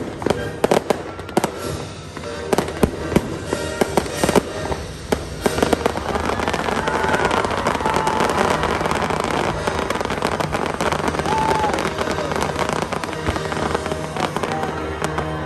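Fireworks display: rapid sharp bangs and crackles through the first six seconds, then a thicker, steadier rush of crackling noise. Music plays along underneath.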